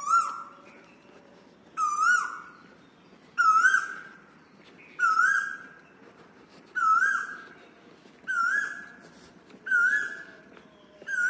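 Asian koel calling: a clear two-part 'ku-oo' note repeated about every second and a half, eight times, each rising sharply at the start and then held. The series creeps slightly higher in pitch as it goes on.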